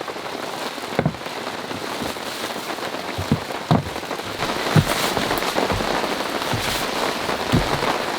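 Heavy rain falling steadily, growing a little louder about halfway through, with a few sharper drops or knocks standing out above it.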